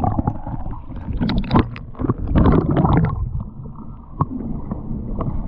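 Water splashing and sloshing as a swimmer moves off through the river under a wooden dock. There are a few louder splashes in the first three seconds, then the sound goes dull and muffled.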